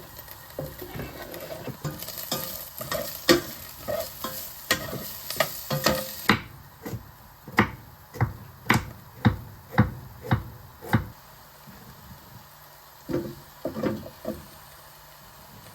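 Food sizzling in a frying pan while a utensil stirs and scrapes it, with frequent clicks against the pan. About six seconds in the sizzle drops away, and a run of regular knocks or scrapes follows, roughly two a second, then a few more near the end.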